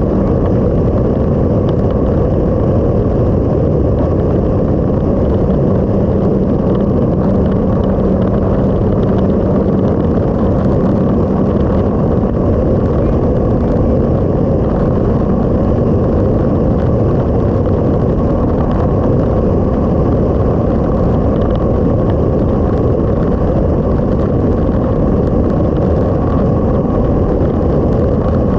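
A motorcycle on the move: a steady, loud rush of wind and road noise over the engine's drone, with an even engine note showing faintly through it for a while in the first half.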